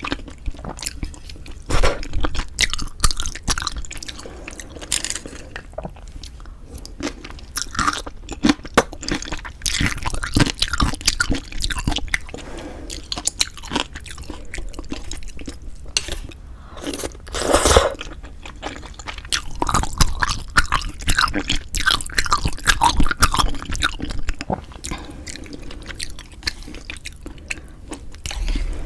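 Close-miked eating of pork-bone soup with glass noodles: steady chewing and biting with wet mouth clicks, smacks and occasional crunches, louder in several stretches.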